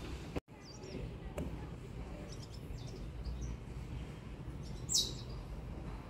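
Outdoor ambience with birds chirping now and then over a steady low rumble, and one sharp, high call falling in pitch about five seconds in.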